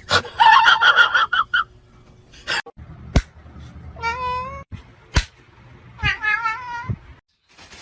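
A cat meowing repeatedly in wavering calls: a quick run of meows at the start, then two longer meows later on. A few sharp clicks or knocks fall between the meows.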